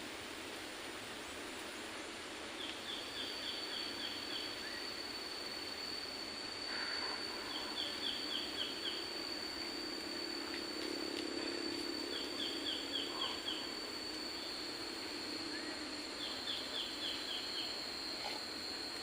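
Forest ambience. A bird repeats a short trill of about six quick high notes every four to five seconds, over a steady background hiss, and a steady high-pitched tone sets in about two and a half seconds in.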